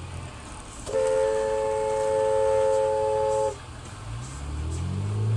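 A car horn held for about two and a half seconds in one steady two-note chord. Near the end a vehicle engine revs up, rising in pitch.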